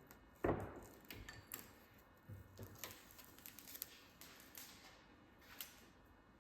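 Faint handling noises: a dull thump about half a second in, then scattered light clicks and short rustles.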